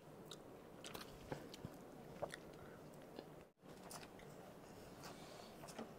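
Faint chewing and small mouth clicks of people eating biryani by hand.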